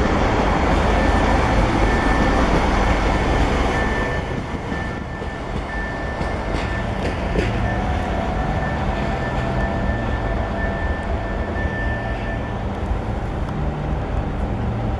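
Stadler passenger train passing close by. Its noise drops off about four seconds in as the last car clears and it moves away, leaving a lower rumble and a thin steady high whine that fades out near the end.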